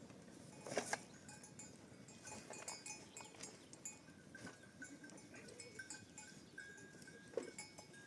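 Faint clinking of livestock bells, with scattered light knocks and ticks; the loudest knock comes about a second in.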